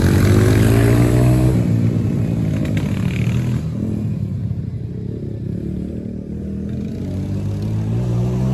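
Dirt bike engine revving, its pitch climbing for about a second and a half before dropping away. It stays quieter for several seconds, then revs up again near the end.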